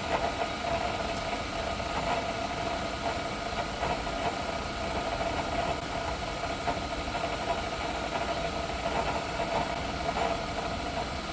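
Milling machine running steadily with a constant whine, with faint ticks now and then.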